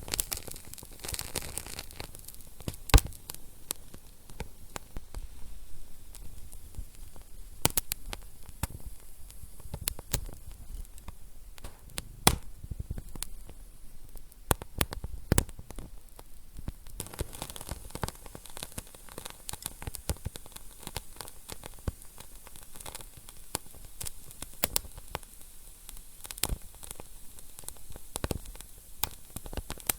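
Wood fire burning in a fireplace: a low hiss with irregular sharp crackles and pops, a few of them louder, such as one about three seconds in.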